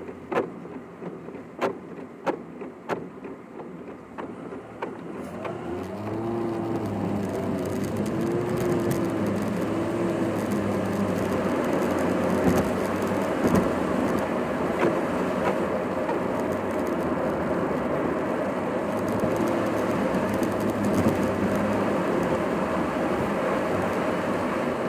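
Car interior sound sped up to double speed: a few sharp clicks over low background noise at first, then from about six seconds in the engine and road noise grow louder as the car pulls away, the engine pitch rising and falling through the gears.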